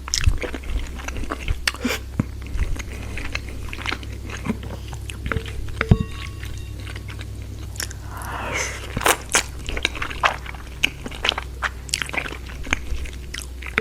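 Close-miked eating: a person biting and chewing crunchy food, with many short crisp crunches and a longer noisy sound about eight seconds in.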